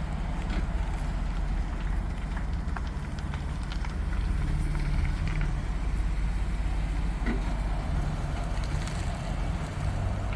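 2019 Ford Transit 250 van's engine idling steadily, with scattered light clicks over it.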